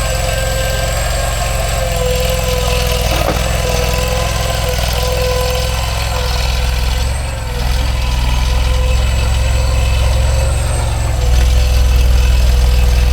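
Kanga mini loader's engine running while it scoops out soil, a steady hum with a thin steady whine above it. It dips briefly about seven seconds in and gets louder about eleven seconds in.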